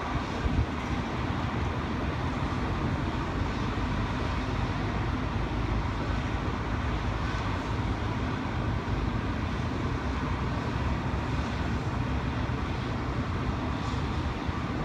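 Steady wind noise buffeting the microphone, mixed with the even rumble of jet airliner engines at an airport.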